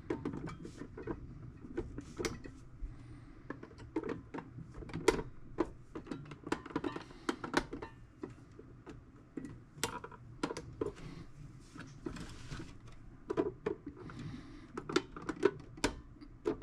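Irregular clicks, taps and scrapes of a blade prying at the small round caps that cover the screws on the back of a metal toolbox.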